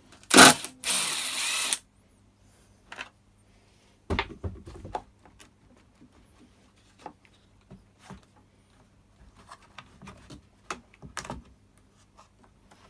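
A power driver spins out a screw from the blower's housing near the start: a short loud burst, then about a second of steady motor noise that stops sharply. After it come scattered clicks and knocks of plastic housing parts and tools being handled.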